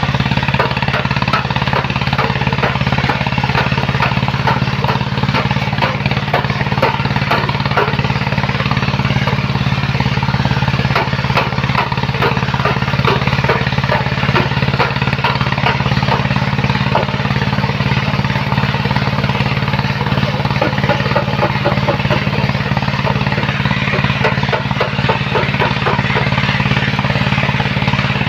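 Engine of a sand-loading machine running steadily at constant speed, with a dense crackling rattle over it.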